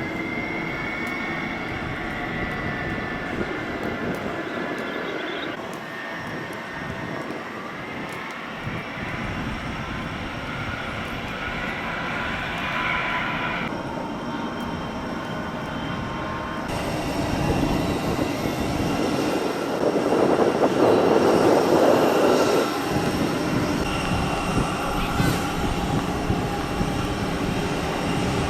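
Boeing 747 jet engines running, a steady rush with high whining tones. The sound changes abruptly a few times, and swells to its loudest about two-thirds through.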